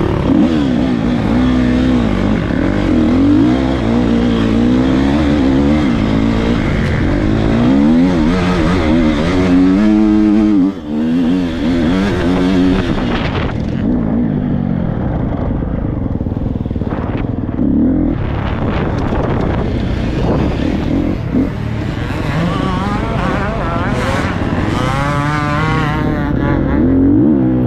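Dirt bike engines revving, the pitch rising and falling over and over.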